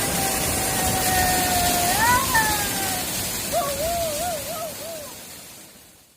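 Waterfall rushing steadily, fading out near the end, with a held, wavering hummed or whistled tone over it.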